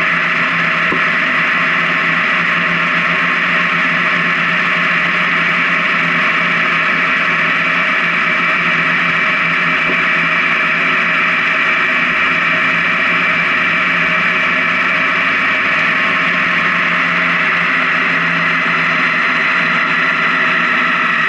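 Honda Gold Wing touring motorcycle cruising at highway speed: steady wind and road noise over the engine's even hum. Near the end a tone slides down in pitch.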